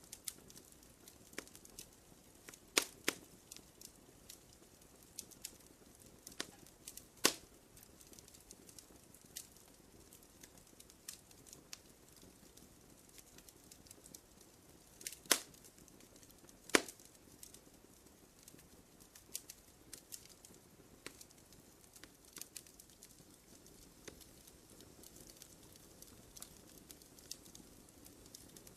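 Campfire crackling: scattered soft pops and ticks over a faint steady hiss, with four louder snaps, two of them about a second and a half apart past the middle.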